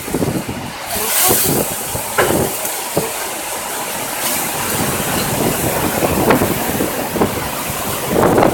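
Strong typhoon wind gusting, a loud rushing noise that swells and eases, with the wind buffeting the microphone.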